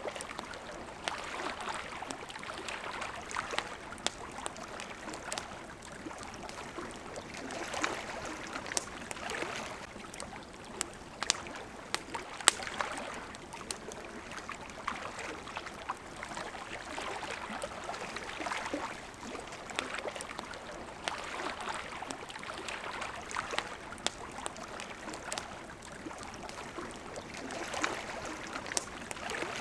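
Water lapping in gentle swells that rise and fall every few seconds, with the sharp crackles and pops of a wood campfire scattered throughout.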